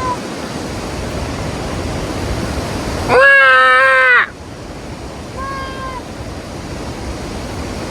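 Sheep bleating: one loud, wavering bleat about three seconds in, with fainter, higher bleats at the start and again around five and a half seconds in. A steady rushing noise runs underneath.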